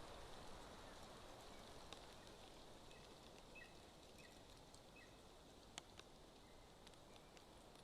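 Faint hiss of light rain with scattered drip ticks. Four short, high bird chirps come around the middle, and there is one sharper tick shortly after.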